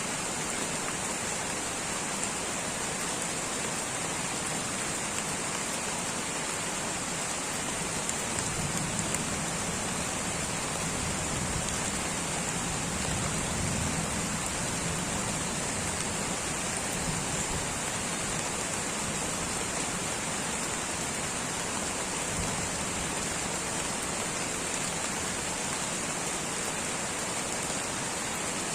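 Light rain falling steadily in a tropical rainforest, an even hiss throughout. A faint low rumble swells for several seconds in the middle.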